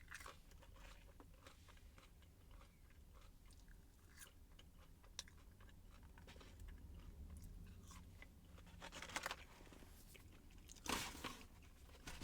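Faint close-up chewing, with many small crisp crunches of food in the mouth and a few louder crunches near the end.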